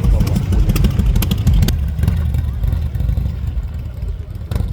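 Harley-Davidson V-twin motorcycle engine running with a deep low rumble and a rapid run of sharp ticks for the first second and a half, then a steadier low sound.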